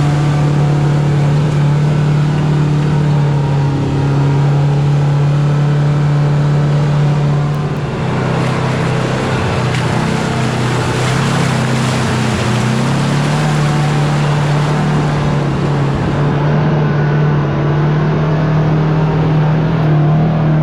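Side-by-side UTV engine running steadily at cruising speed, its pitch holding nearly level with a slight dip about eight seconds in, under a steady rushing noise.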